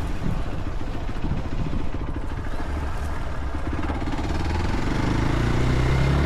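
Motorcycle engine running under way, its pitch rising slightly near the end.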